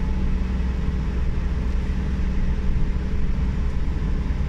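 Suzuki Every DA17W's R06A turbocharged three-cylinder engine pulling steadily at about 2,500 rpm under load up a steep grade, heard from inside the cabin along with road noise. The hum holds a steady pitch.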